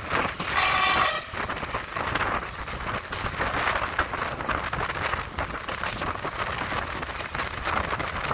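ÖBB class 5047 diesel railcar running along the line, heard from an open window: steady rumble of wheels on the track mixed with wind buffeting the microphone. A brief high tone sounds about half a second in and lasts under a second.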